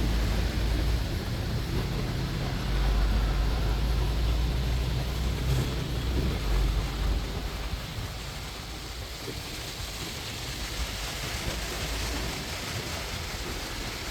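Double-decker tour bus riding in heavy rain: a low engine rumble under a steady hiss of rain. The rumble eases about eight seconds in.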